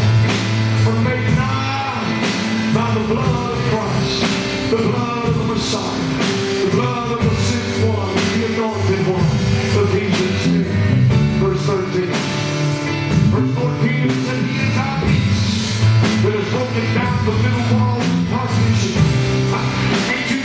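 Live gospel praise band playing: drum kit, bass guitar and piano, with singing over them.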